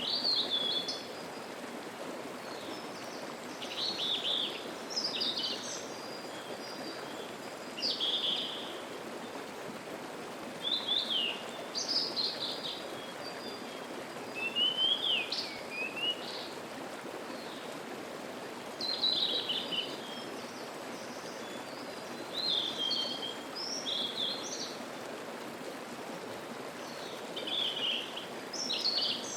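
A songbird singing short, quick phrases every few seconds, over the steady rush of a mountain stream.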